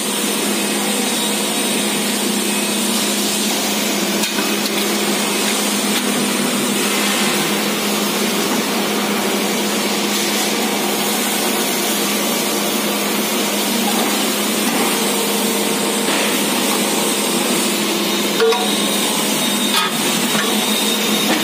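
Steady machinery running in a metal-parts factory, a constant even noise over a low hum, with a sharper knock about eighteen seconds in.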